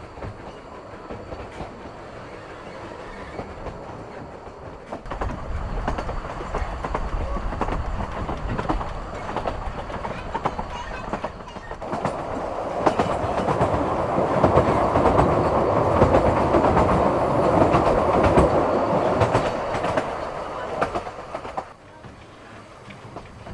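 Narrow-gauge steam train running along the line, wheels clattering over the rail joints with a steady rumble. It grows louder about five seconds in, louder still through the middle, then falls back sharply near the end.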